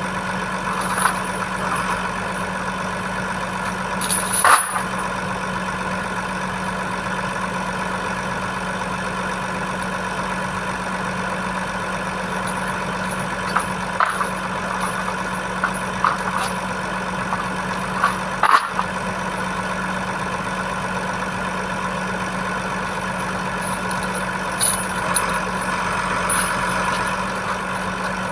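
Diesel engine of an Iveco Trakker boom truck running steadily at idle, with a few sharp knocks about four and eighteen seconds in.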